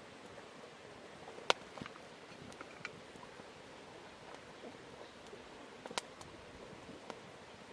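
Wood campfire crackling: a few sharp, scattered pops over a steady low hiss, the loudest about a second and a half in.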